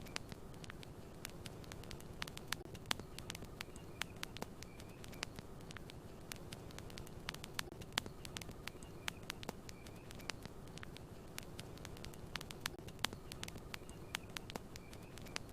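Campfire crackling: irregular sharp pops and snaps of burning wood, several a second, over a steady low rush of the flames.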